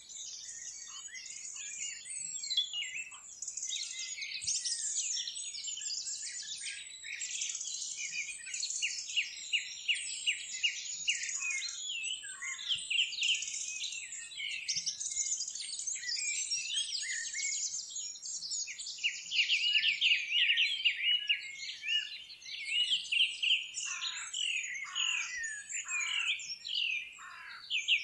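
A chorus of birds singing and calling together: dense, overlapping high chirps and rapid trills, with a few downward-sliding calls near the end.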